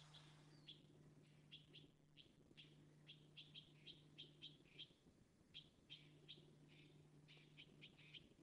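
Faint short, high bird chips, two or three a second with brief pauses, over a steady low hum.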